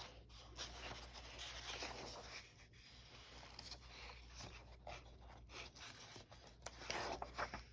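Paper rustling and sliding as a paper doll book and its pages are handled, faint and scattered, with a louder patch of rustling near the end.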